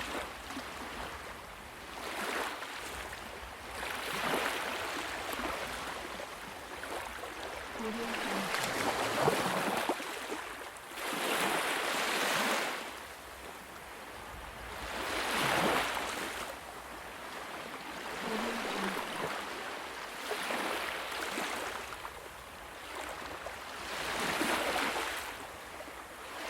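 Ocean surf: waves breaking and washing in one after another, each surge swelling and fading every three to five seconds.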